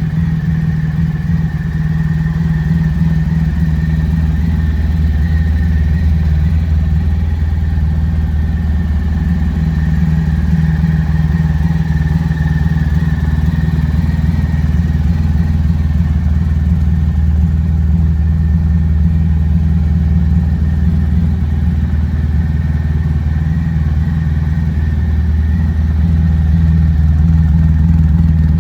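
Honda ST1100 Pan European's V4 engine idling steadily, with no revving.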